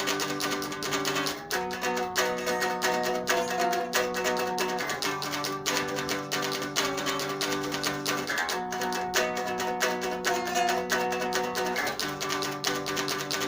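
Guitar played unplugged, fast repeated picked notes over chords that change about every three and a half seconds.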